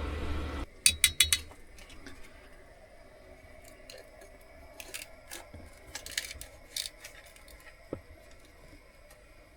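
A steady rushing noise stops suddenly just under a second in. It is followed by a quick run of sharp clicks and then scattered light clinks and knocks of kitchenware being handled while cooking.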